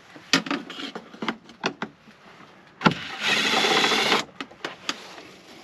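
Clicks and knocks of parts and tools being handled, then about three seconds in a sharp click and a loud, rapid mechanical buzz lasting about a second, like a power tool or ratchet, while a diesel heater is being removed from a van.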